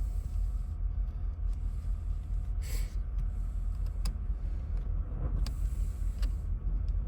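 Light clicks and knocks of small parts being handled and pushed into a truck's steering column, a few scattered sharp clicks and one short hiss, over a steady low rumble.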